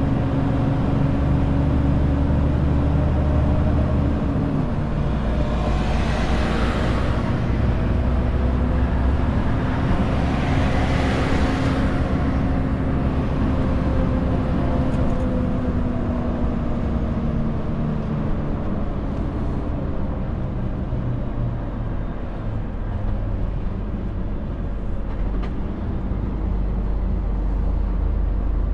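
Renault T520 truck's six-cylinder diesel engine running steadily while hauling about 40 tonnes, heard from the cab. Its pitch steps down about four and a half seconds in. Two hissing swells follow, one a few seconds later and another about five seconds after that.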